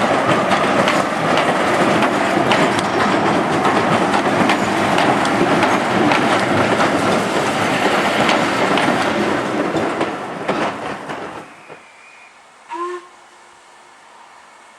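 Steam-hauled train passing close by, its wheels clattering over the rail joints, the noise falling away about eleven seconds in. A short whistle toot sounds about a second later.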